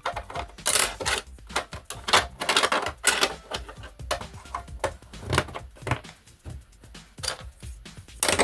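Small plastic model-railway sleepers being handled and clicked into place on a track base: an irregular run of light clicks and knocks.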